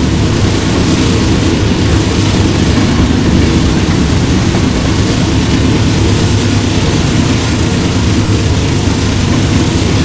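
A train passing close by: a loud, steady, low rumble that holds without a break.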